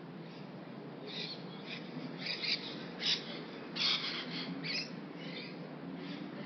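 Birds calling: a run of short, high calls, clustered from about a second in to about five seconds, loudest in the middle, over a steady low background hum.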